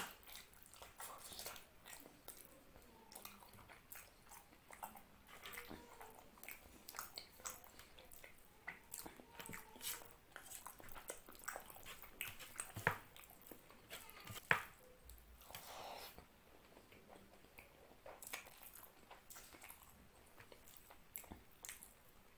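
Close-miked chewing and lip-smacking of mutton curry and rice eaten by hand, a steady run of small wet clicks with fingers squishing rice on the plate, and two sharper, louder clicks about thirteen and fourteen and a half seconds in.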